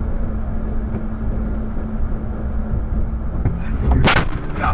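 A steady low rumble, then a loud crash of a car collision about four seconds in, followed by a second, shorter bang near the end.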